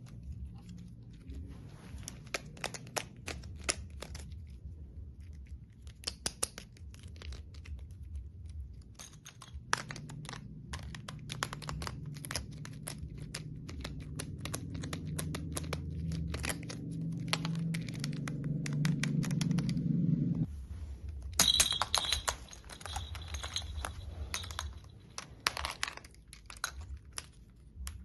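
Toys being handled, giving a run of small, sharp clicks and taps. About ten seconds in a low hum joins them, growing louder until it cuts off suddenly about twenty seconds in.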